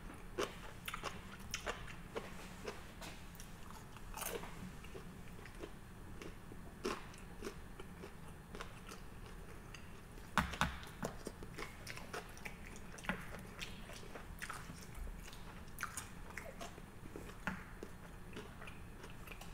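A man chewing a mouthful of sushi: soft, irregular mouth clicks and smacks, with the loudest cluster about halfway through.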